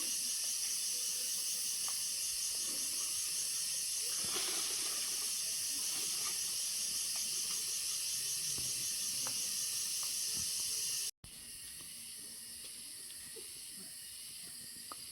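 Rainforest insect chorus: a steady high-pitched shrill drone with a fine pulsing texture. About eleven seconds in it cuts out for an instant and resumes quieter.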